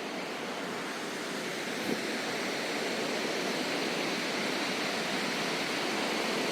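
Steady rushing of a waterfall, a dense even hiss that swells a little over the first couple of seconds and then holds.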